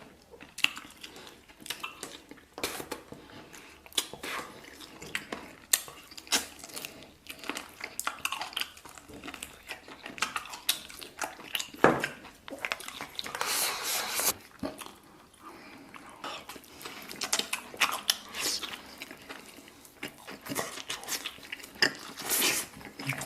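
A person eating braised beef and rice close to the microphone: chewing and biting, with a utensil clicking irregularly against a bowl.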